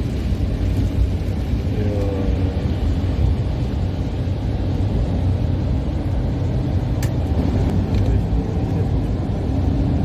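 Steady low rumble and hiss of a car driving on a wet road in the rain, with a single sharp click about seven seconds in.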